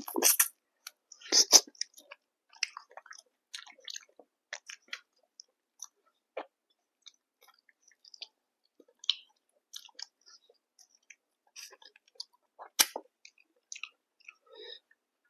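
Close-miked chewing and eating: a steady scatter of small wet mouth clicks and smacks, with louder bites at the start, about a second and a half in, and near the end.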